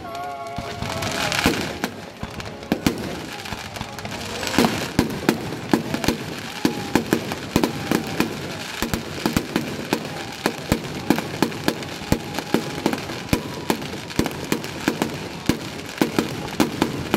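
Fireworks display: aerial shells bursting overhead in sharp bangs and crackles, which come faster from about four seconds in and become a near-continuous barrage of several reports a second.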